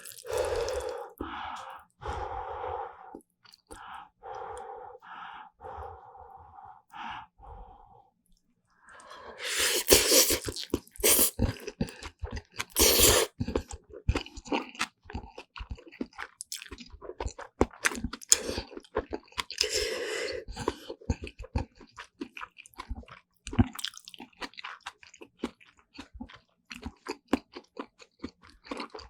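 Close-miked chewing of black bean noodles and side dishes such as kimchi, with a steady run of wet clicks, smacks and crunches. A few louder crunching stretches come in the middle.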